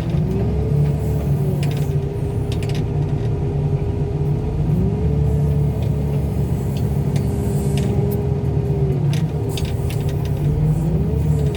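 Car crusher's engine and hydraulics running hard, the engine note sagging and recovering several times as the crush loads it. A few sharp cracks come from the vehicles being crushed.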